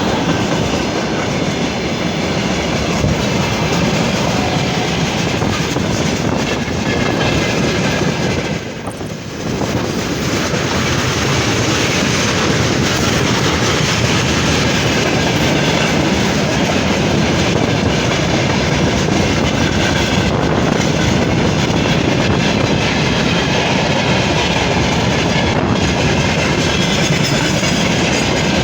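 Freight train hauled by a VL10U electric locomotive rolling past, its wagon wheels clattering steadily over the rail joints. The noise dips briefly about nine seconds in.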